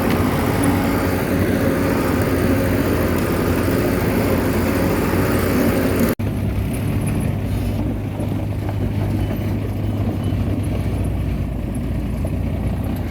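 Bulldozer's diesel engine running steadily. About six seconds in it cuts out for an instant, then continues duller, with less of the high rattle.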